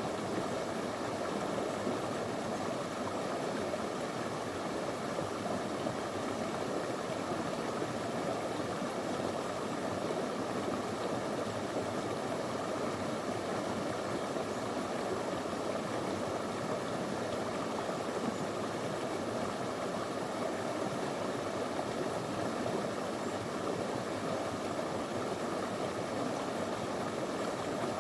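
Small river flowing over stones: a steady rush of water with no let-up.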